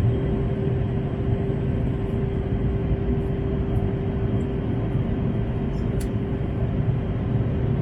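Steady cabin noise of an Airbus A321neo with Pratt & Whitney geared turbofan engines: a deep, even rumble of engine and airflow with a steady hum running through it.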